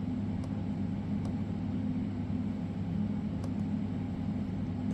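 Steady low machinery hum from the CNC router setup, with a few faint clicks scattered through it.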